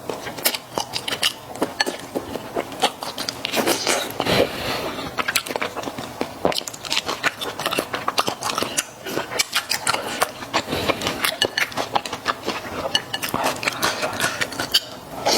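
Close-miked chewing of mala xiang guo with thick, chewy Chinese glass noodles: a dense, irregular run of wet mouth clicks and smacks.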